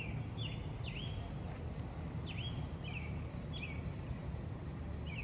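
A small bird chirping repeatedly, short falling chirps every half second to a second, over a low steady outdoor rumble.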